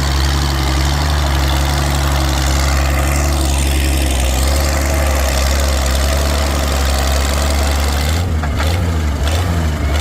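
Antique farm tractor engine running hard under full load as it drags a weight-transfer pulling sled down the track. The steady engine note changes abruptly about eight seconds in.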